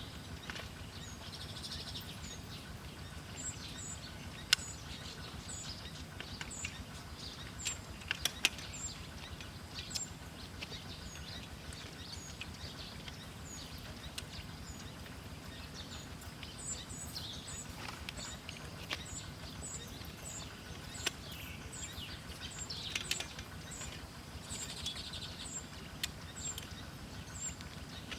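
Small bird chirping over and over in short, high notes, with scattered sharp clicks and a steady low hum underneath.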